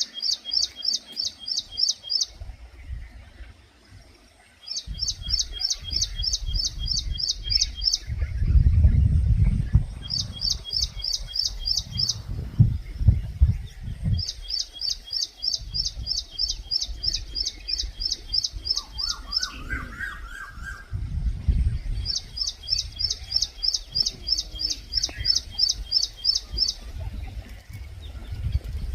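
A bird singing repeated series of high, evenly spaced notes, about five a second, each series lasting two to four seconds with short pauses between. A lower, shorter call from another bird comes in about twenty seconds in, and a low rumble rises and falls underneath.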